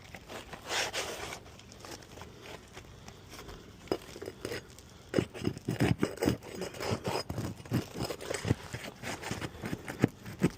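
Asphalt roof shingles being pried up, their sealant strips breaking loose with scraping and crackling. About four seconds in, it turns into a quick, uneven run of sharp cracks and snaps.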